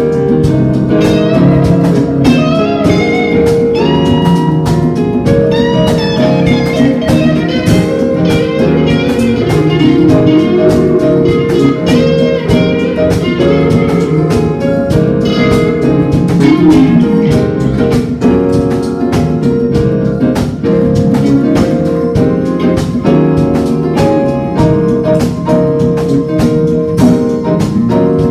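A live band playing an instrumental passage: guitar with held notes and a wavering melody over a steady beat of sharp strokes.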